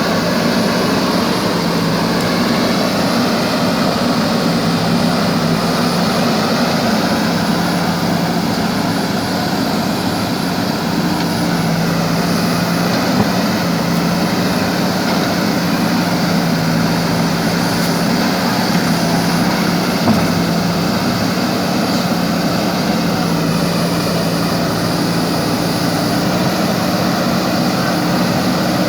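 Diesel engine of a JCB 3DX backhoe loader running steadily with a constant low hum as the machine drives over rough ground.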